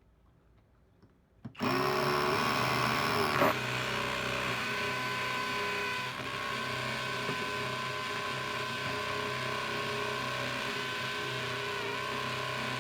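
Kobalt 24V cordless drill starting about a second and a half in, rising briefly in pitch as it spins up, then running steadily at speed, with one sharp click a couple of seconds after it starts.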